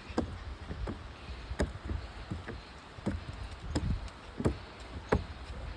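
Footsteps of a person walking slowly: soft thumps about every 0.7 seconds over a low rumble.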